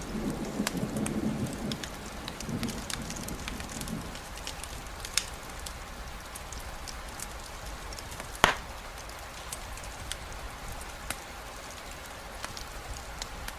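Steady rain with a campfire crackling, scattered sharp pops and ticks over the even hiss of the rain. A low rumble fades out in the first few seconds, and one louder crack comes about eight and a half seconds in.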